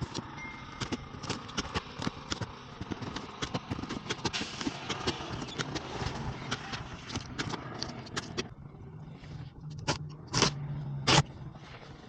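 A large cardboard box being handled: a run of scrapes and small clicks, with two louder knocks near the end over a faint low hum.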